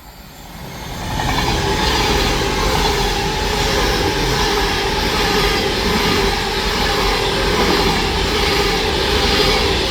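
Class 390 Pendolino electric train passing through the station without stopping: the rushing noise of the train builds over the first second or so, then holds loud and steady, with a steady hum over it.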